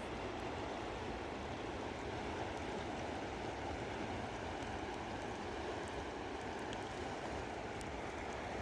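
Steady rushing of flowing water, with a few faint ticks.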